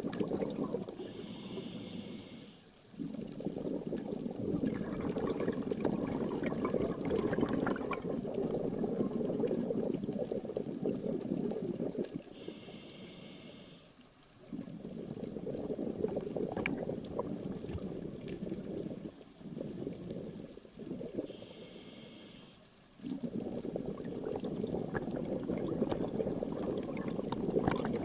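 Scuba diver breathing through a regulator underwater: a short hissing inhale followed by several seconds of bubbling exhaust, three breaths in all.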